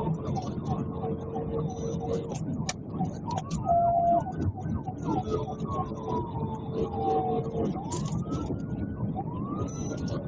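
Police car siren in a slow wail, rising and falling over several seconds, with rapid short pitch sweeps underneath, over steady road and engine noise.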